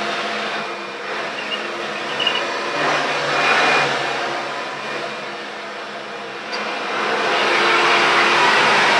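Hoover Runabout Supreme vacuum cleaner running: a steady motor and airflow rush that swells and eases, growing louder from about seven seconds in.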